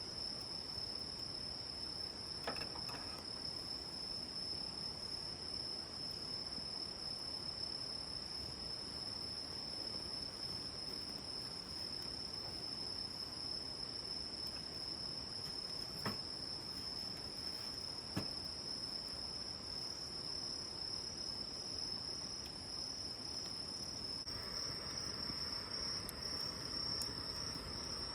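Crickets singing: one steady, unbroken high-pitched tone, with a few faint clicks along the way.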